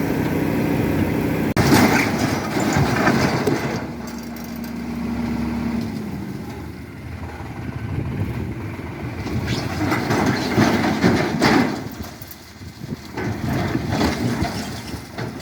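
An engine running, with a steady low hum at first. About a second and a half in the sound changes abruptly and then rises and falls unevenly.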